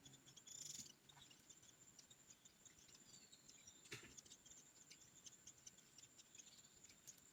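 Faint forest ambience: a steady high-pitched insect drone with many quick high chirps from small birds. A brief rustle comes just under a second in, and a single sharp click about four seconds in.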